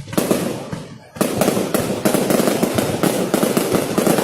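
Fireworks being set off: a dense, rapid crackle of many pops that thins briefly about a second in, then comes back thicker and keeps going.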